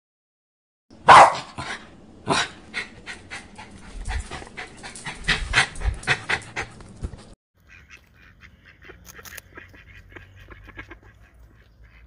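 Small dog, a Pomeranian, gives one sharp bark about a second in, then pants rapidly at about four breaths a second. It cuts off abruptly about seven seconds in, and fainter scattered clicks follow.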